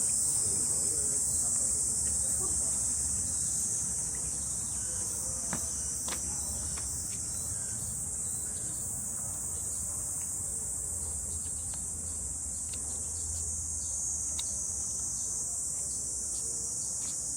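Chorus of cicadas in summer forest trees: a continuous, steady, high-pitched buzz.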